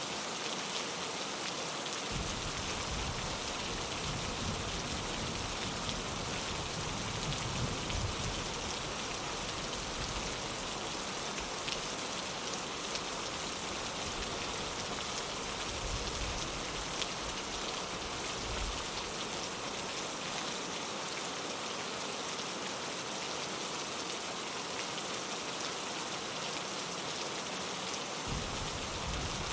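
Steady rain pattering on a window pane, an even hiss. A low rumble comes in underneath about two seconds in, swells twice, and drops away near the end.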